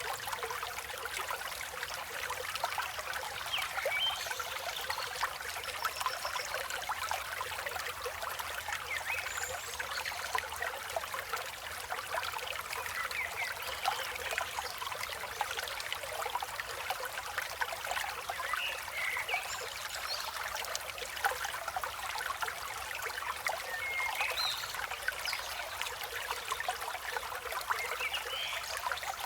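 A river flowing with a steady trickling rush, with short bird chirps scattered over it.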